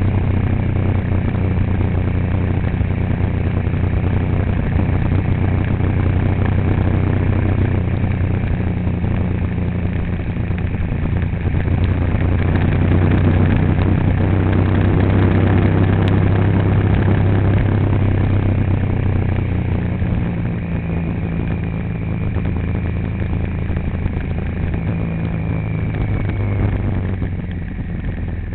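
A vehicle's engine running steadily with a low hum and road noise, a little louder about halfway through and easing off near the end.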